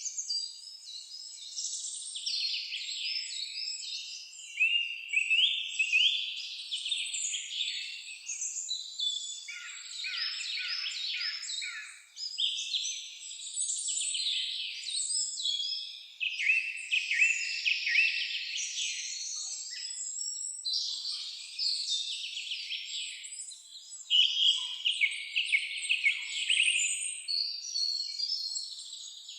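Several songbirds singing over one another in a dense, unbroken high-pitched chorus of rapid trills and chirps.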